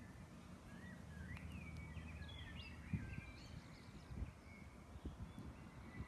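Several small birds singing in short chirps and quick rising and falling whistles, thickest in the first half, over a faint low rumble broken by a few soft low thumps, the loudest about halfway through.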